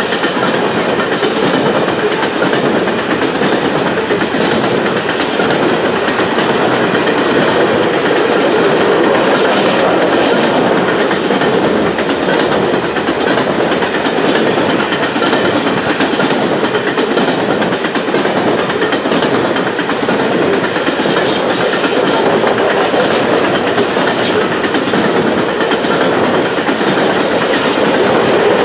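Steel wheels of a long string of coal cars rolling along the rails: a loud, steady rolling noise of a freight train passing.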